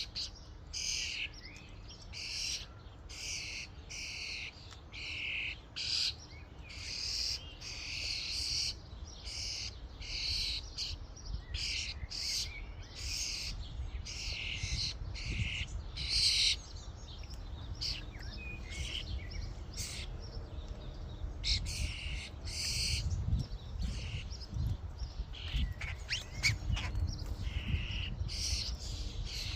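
Common starlings chattering at a feeding station: a run of short, harsh, rasping calls one after another, with a low rumble underneath that grows stronger in the second half.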